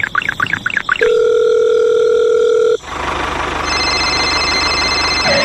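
A quick run of chirps, then a steady electronic tone like a telephone dial tone for about two seconds that stops abruptly, followed by a loud steady hiss-like noise with a low hum.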